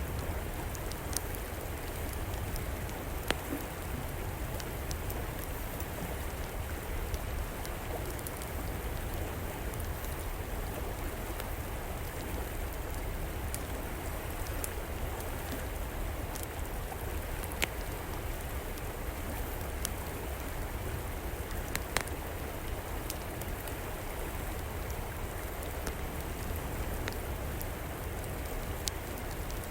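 River water flowing steadily, with occasional sharp pops and crackles from a wood fire.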